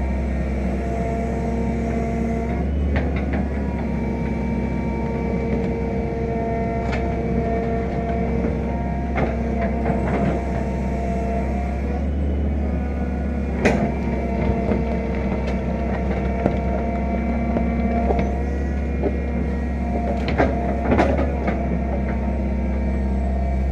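Fiat-Hitachi EX165 crawler excavator running steadily under load while digging, its engine hum joined by tones that shift in pitch as it works. Scattered short sharp knocks cut through, the loudest a little past halfway and a pair near the end.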